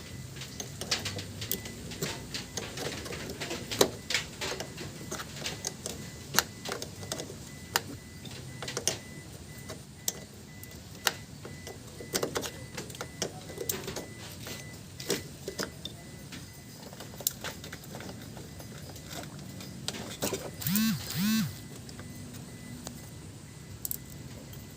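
Irregular clicks, taps and knocks of hand tools on metal during work on the car, with two short squeaks that rise and fall a little after twenty seconds in.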